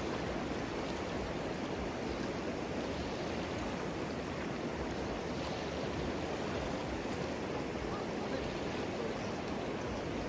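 River water flowing, a steady rushing sound that does not change.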